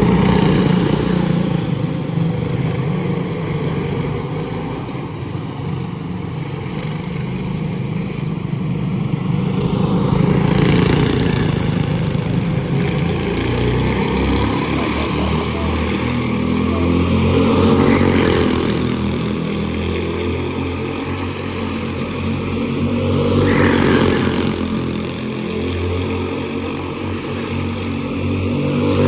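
Quarter midget race cars' small single-cylinder engines running at racing speed on the track, the sound swelling and fading about every six to seven seconds as the cars come round each lap.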